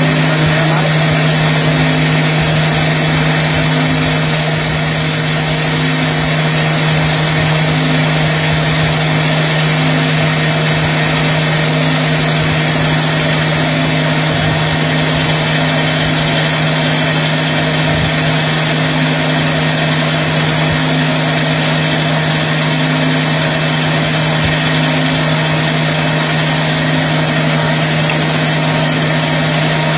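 Heavy CNC roll-turning lathe running, a steady machine hum with an even hiss over it. A brief higher hiss comes about 3 to 6 seconds in.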